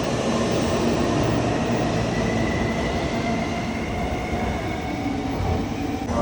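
Shinkansen bullet train moving along the station platform as it pulls in: a steady rumble of wheels and running gear, with a thin high whine in the middle.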